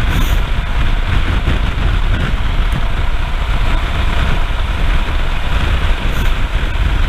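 Royal Enfield Himalayan's 411 cc single-cylinder engine running steadily while riding, mixed with steady rumbling wind noise on the rider's microphone.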